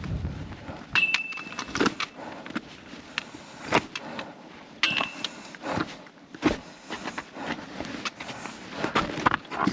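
A hiker's footsteps going down a stepped mountain trail: irregular knocks and scuffs, with a short metallic ring twice, about a second in and about five seconds in.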